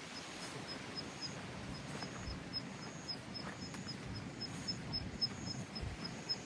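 Outdoor ambience of even, high-pitched chirping repeated about four times a second, with a higher trill coming and going in short spells, over a low rumbling background noise.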